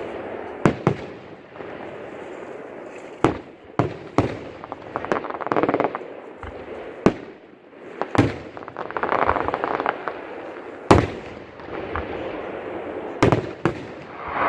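Fireworks display: aerial shells bursting with sharp bangs at irregular intervals, the loudest about eleven seconds in. Twice the bangs give way to a dense spell of crackling from crackle-effect shells.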